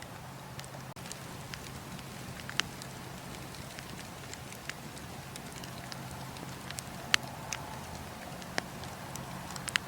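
Campfire burning, wood crackling with sharp pops at irregular moments over a steady hiss; the loudest pop comes about seven seconds in.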